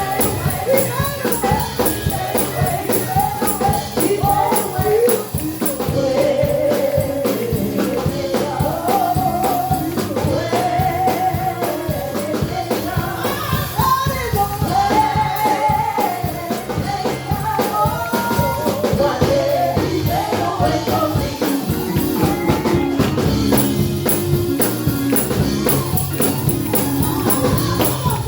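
Gospel praise music: voices singing a melody over a fast, steady tambourine and drum rhythm.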